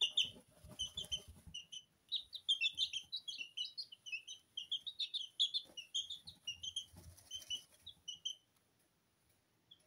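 Two-week-old Sablepoot bantam chicks peeping, many short high chirps overlapping in quick succession, with a soft low rustling in the first second and a half. The peeping stops a little past eight seconds in.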